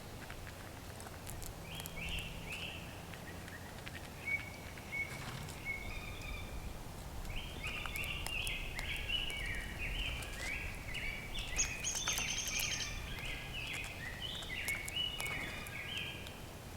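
Birds chirping: many short, overlapping calls, sparse at first and growing thick after a few seconds, over a low background rumble with scattered faint clicks.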